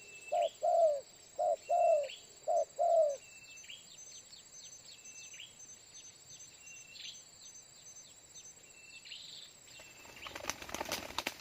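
Spotted dove cooing: four phrases in the first three seconds, each a short note followed by a longer, falling one, then it stops. Faint high chirps of small birds and a steady high insect ticking go on underneath, and a burst of rustling starts near the end.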